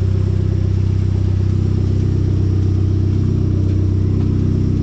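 Hyundai Genesis Coupe's turbocharged four-cylinder idling steadily through a new custom exhaust with a resonator, which has a small leak at a flange gasket.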